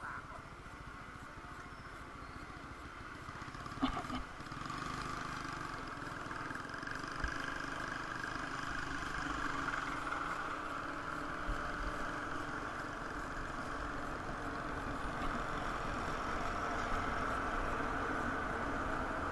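Steady road traffic noise, vehicles and motorcycles going by, growing a little louder after a few seconds. A single short knock about four seconds in.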